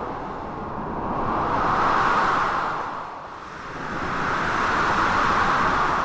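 Storm wind and waves: a steady rush of noise that swells twice, about two and five seconds in, with a short lull between.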